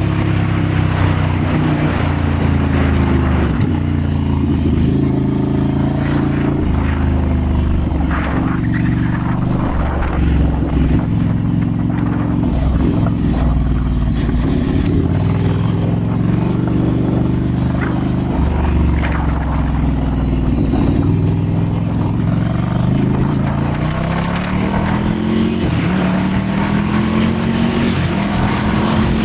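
Ducati Scrambler's L-twin engine running on a trail ride, its note rising and falling with throttle and gear changes, and a long climb in pitch near the end as it accelerates.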